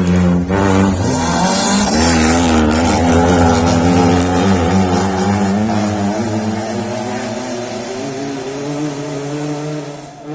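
Rally car engine revving hard as the car drives past, its pitch rising and falling with throttle and gear changes. It is loudest a few seconds in and fades away over the last few seconds.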